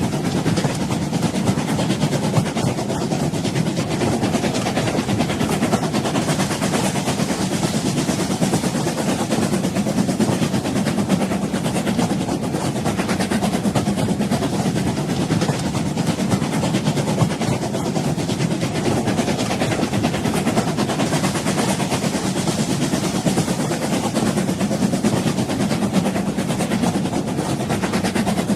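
A moving train's steady rumble, even and unbroken throughout.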